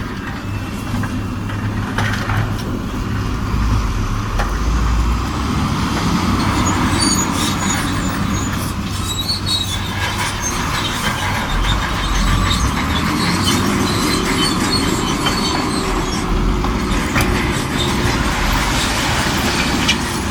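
Shantui DH17C2 bulldozer's diesel engine working under load, its pitch rising and falling twice, with a constant metallic clatter and squeal from its steel tracks.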